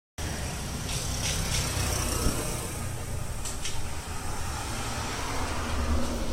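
Steady low rumble of road traffic, with a few brief high-pitched chirps about a second in and again around three and a half seconds in.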